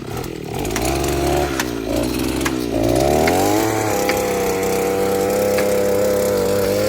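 A small engine running unevenly, then revving up about three seconds in and holding a steady high speed.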